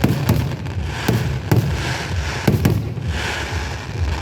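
Aerial fireworks bursting: about six sharp bangs at uneven intervals, some in quick pairs, over a continuous low rumble.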